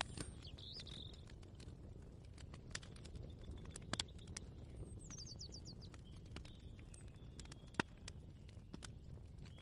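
Kitchen ambience: scattered clicks and clinks of utensils and crockery over a low steady rumble, with the sharpest knock about eight seconds in. Birds chirp now and then, including a quick run of falling chirps about five seconds in.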